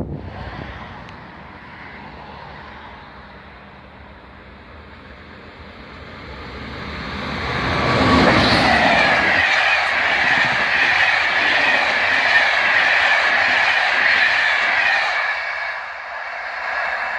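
A train passing close by: the rumble and wheel-on-rail noise swell from about six seconds in, stay loud for several seconds, then ease off near the end.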